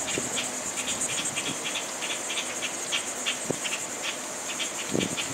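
Outdoor insect chorus: a steady high-pitched buzz with short chirps repeating several times a second.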